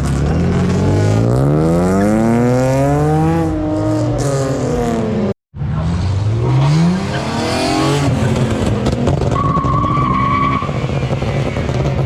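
Car engine revving, its pitch climbing and falling several times, with a short cut in the sound about five and a half seconds in. Later a high thin squeal lasts about a second over the engine noise.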